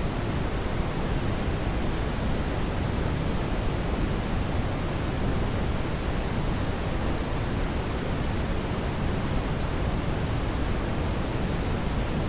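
Steady brown noise: an even, deep rushing hiss, strongest in the bass, with no change or events.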